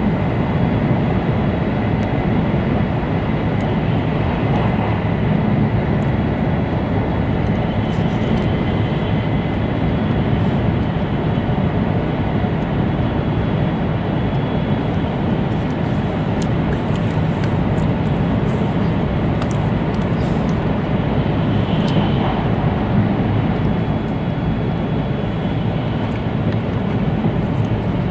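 Steady rumble and rush of an E2-series Shinkansen car running along the line, heard inside the passenger cabin, with a faint high whine and a few light ticks.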